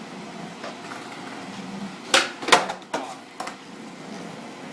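Skateboard clattering on hard ground during a trick attempt: four sharp knocks in about a second and a half, starting about two seconds in.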